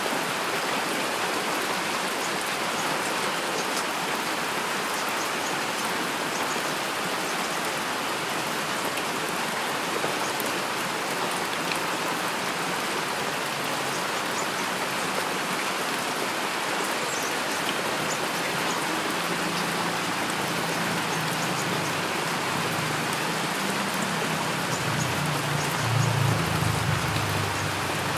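Steady heavy rainfall, an even hiss of many drops. In the last third, a low rumble of distant thunder builds, peaks near the end, and fades.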